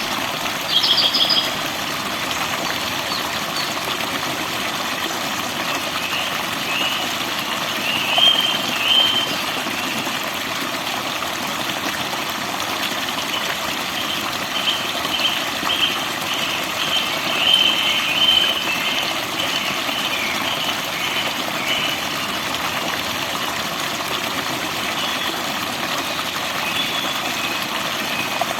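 Steady rush of flowing water with wild birds chirping over it in scattered bursts: a few short calls about a second in, a pair about a third of the way through, a longer run of chirps in the middle, and faint ones near the end.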